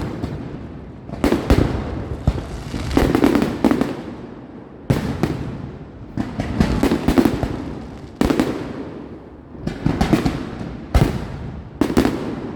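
Fireworks display: aerial shells bursting one after another, a sharp bang about every second or two, each trailing off in crackle and rumbling echo.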